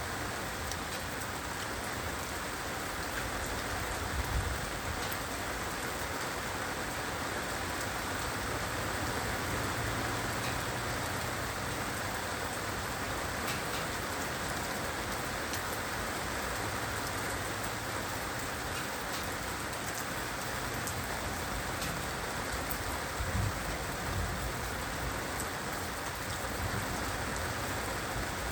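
Heavy rain falling steadily, with scattered sharper drop ticks. Two brief low thumps stand out, about four seconds in and again around twenty-three seconds in.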